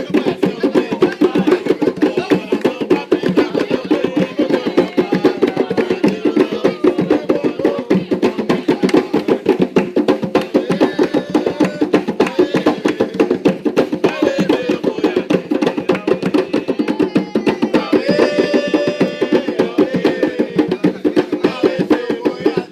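Atabaque hand drums played in a fast, steady rhythm of dense strokes.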